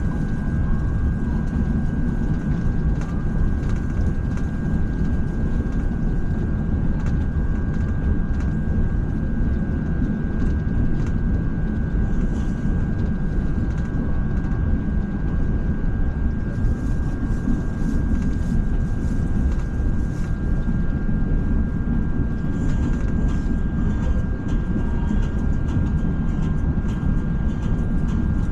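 Interior running noise of a KTM ETS electric train: a steady low rumble with a thin, steady high whine over it.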